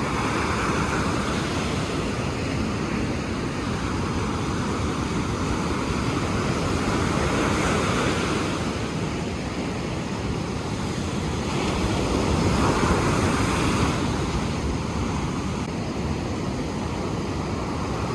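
Ocean surf washing ashore in a continuous rush that swells louder a couple of times, with wind buffeting the microphone.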